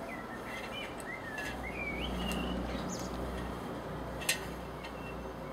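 A bird sings a run of chirps and warbles over the first few seconds, over a low steady rumble that sets in after about a second and a half. One sharp click comes about four seconds in.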